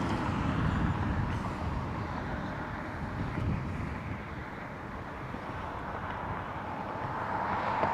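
Jet engines of an airliner departing, a steady rumbling roar that eases in the middle and swells again near the end.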